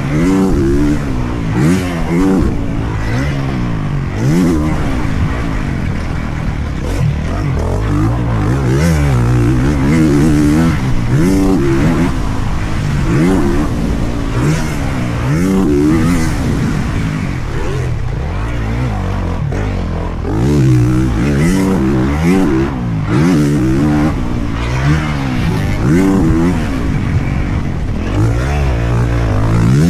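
Motocross dirt bike engine being ridden hard, revving up and falling back over and over, its pitch climbing and dropping repeatedly.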